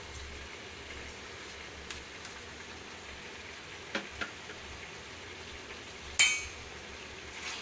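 Chicken in spice paste sizzling in a steel kadai: a steady, even frying hiss. A few faint taps, and one sharper clink about six seconds in.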